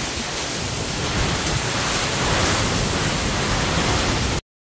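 Heavy rain pouring down in a storm, a loud steady hiss, with wind rumbling on the microphone. It cuts off abruptly near the end.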